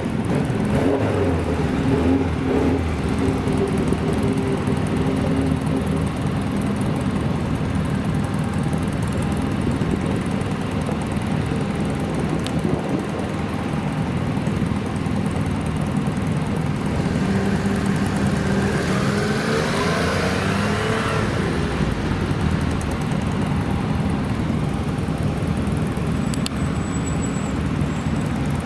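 Classic cars' engines running steadily, with one engine's pitch rising as it revs up about two-thirds of the way through, then settling back.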